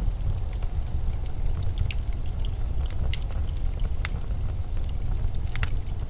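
Blizzard wind as a steady low rumble, with scattered sharp crackles and ticks at irregular moments over it.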